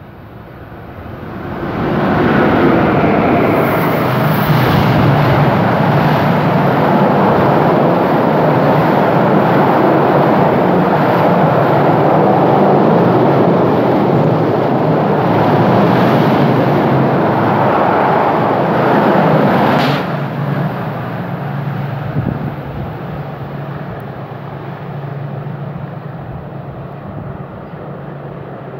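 A train passing close by at speed: a loud, steady rush and rumble of wheels on rail builds up within about a second and holds. About two-thirds of the way through it cuts off abruptly as the last car goes by, leaving a fainter rumble that fades away.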